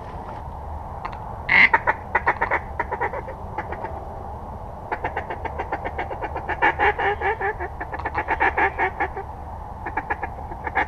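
Mallard-style duck quacking in rapid, loud runs of chattering notes: a first run about a second and a half in, then a longer one from about five seconds to nine.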